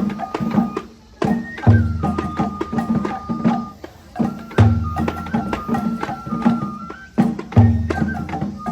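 Japanese festival music for a shishi (lion) dance: a flute holding high notes that step between pitches, over quick drum and percussion strokes, with a deep drum beat about every three seconds.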